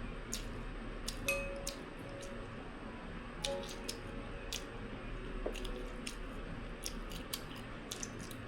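Eating at a table: irregular sharp clicks of utensils against bowls and dishes, several close together at times, with quiet chewing.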